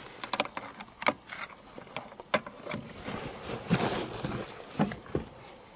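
Irregular sharp clicks and knocks with a stretch of rustling in the middle, the sound of handling objects in a car, with no engine running.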